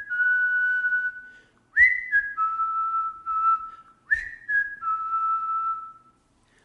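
A person whistling a slow tune unaccompanied, in three phrases of long held notes; the second and third phrases each open with a quick upward slide into the note.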